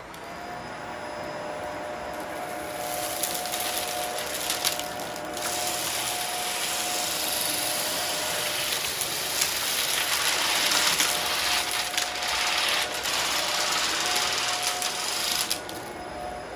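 Shark DuoClean vacuum cleaner running with a steady motor whine. From about three seconds in, a loud crackling rattle of debris from the mess test is sucked up from the rug. Near the end the crackle stops and the plain motor sound goes on.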